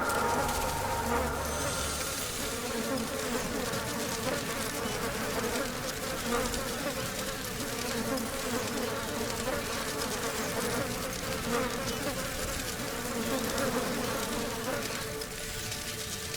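Steady insect buzzing, like bees or flies, that thins out near the end.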